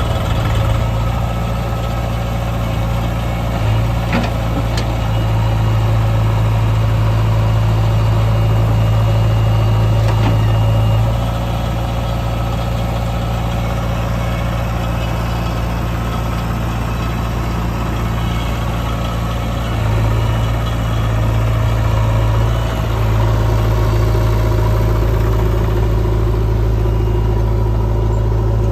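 Diesel engine of a JCB 3DX backhoe loader running steadily as it loads mud, getting louder for several seconds about five seconds in and again for most of the last third, with a few faint knocks early on.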